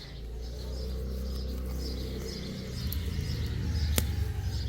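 Small birds chirping repeatedly over a low rumble, with one sharp click about four seconds in.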